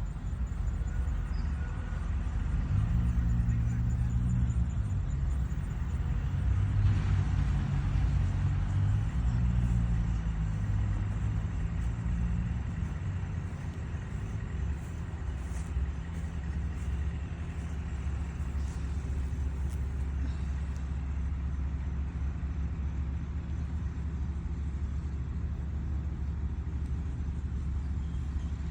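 Low, steady rumble of motor vehicle engine noise, louder and more pitched for a stretch from a few seconds in until about halfway, then settling into an even drone.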